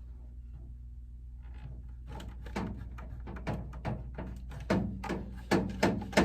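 Irregular sharp clicks and knocks of plastic plugs and cables being handled as an internet router is unplugged to reset it after its lights kept flashing. They start about two seconds in, over a low steady hum.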